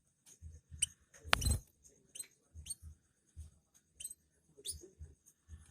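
Caged canary giving short, scattered chirps rather than full song, among soft thumps and clicks. The loudest sound is a sharp click about a second and a half in.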